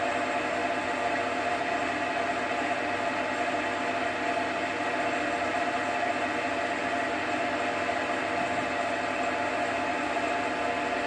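JFMT metal lathe running steadily under power during screw-cutting, with a steady gear whine over the machine noise.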